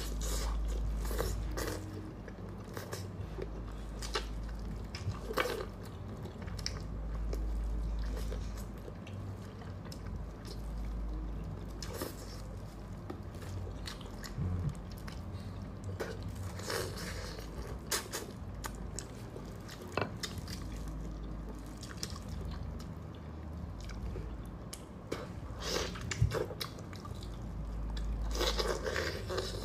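Close-up eating sounds: biting and wet chewing of soft braised meat, with many small sharp clicks from the mouth.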